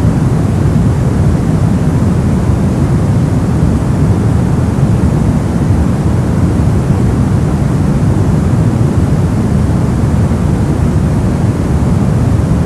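Brown noise: a steady, deep, rumbling hiss with most of its energy in the low end, unchanging throughout.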